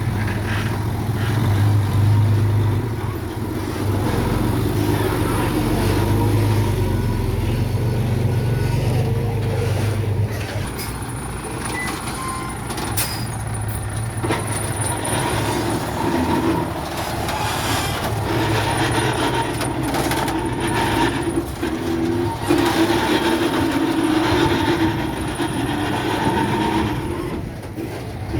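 Bulldozer's diesel engine running under load, a steady deep drone that shifts to a higher running note after about ten seconds, with scattered clanks and knocks.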